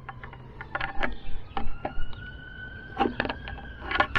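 Scattered clicks and knocks of hand tools and metal parts as a diesel heater's mounting plate is tightened, with a faint thin tone slowly rising in pitch through the middle.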